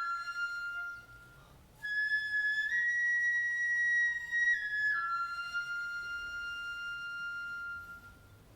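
Flute playing a slow phrase of long held high notes that step up and down, pausing briefly about a second in; the last note is held and fades out near the end, closing a piece of Kibigaku music.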